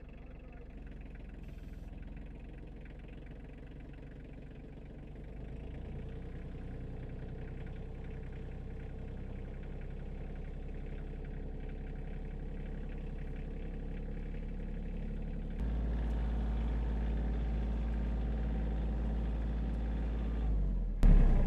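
Tractor engine running steadily, getting louder about five seconds in and louder and deeper still about fifteen seconds in, as it strains to drag a log wedged in a tree crotch. A sudden loud knock comes near the end.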